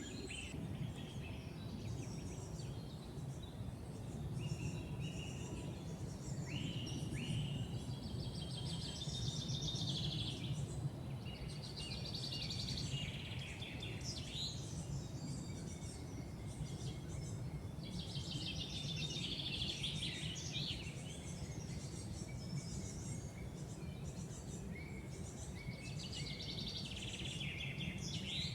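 Several wild birds singing and calling in woodland: short chirps, trills and whistled phrases come one after another, over a steady low background rumble.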